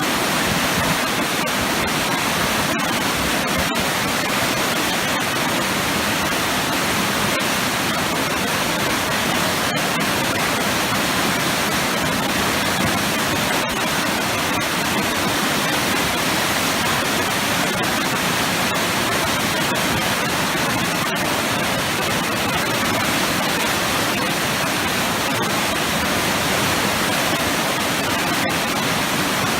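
Waterfall crashing into a pool of big, powerful eddies: a steady, unbroken rush of water.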